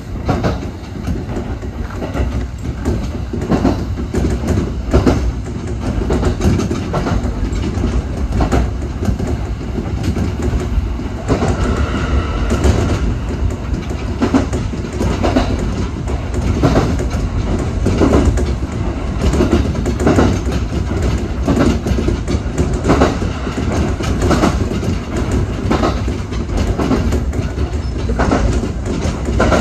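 Kintetsu 1021 series electric train running along the line, heard from just behind the driver's cab: a steady low running noise with the wheels clacking over rail joints at irregular intervals.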